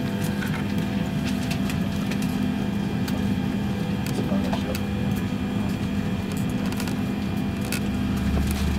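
Steady cabin hum inside a parked Boeing 767 before engine start, with scattered light clicks from the cabin. A deeper low drone comes in near the end.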